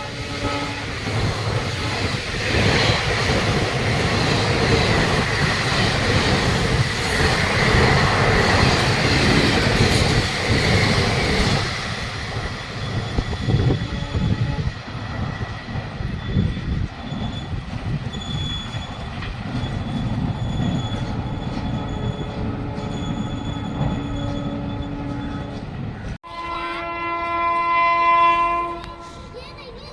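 An Indian Railways express train passing at speed, its wheels clattering over the rail joints, right after a horn blast ends; the noise is loudest for the first dozen seconds, then falls to a quieter rumble. About 26 seconds in, another locomotive sounds a long horn that swells and then stops.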